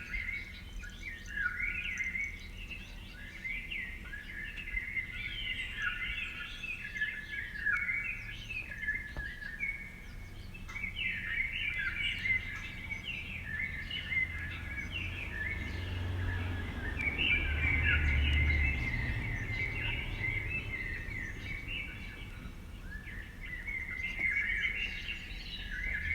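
Several small birds chirping and twittering continuously, with a low rumble swelling in the background about two-thirds of the way through.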